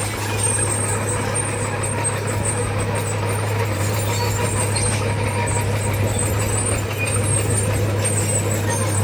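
Heavy earthmoving machinery's diesel engine running steadily, a constant low drone with no revving or stops.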